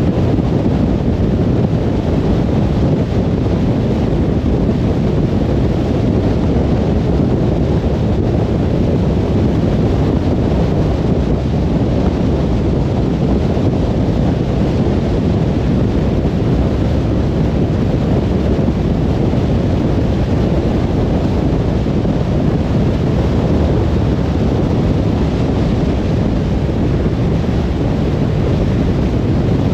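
A car driving at motorway speed: steady tyre and wind noise, a constant low rumble with a softer hiss above it and no changes.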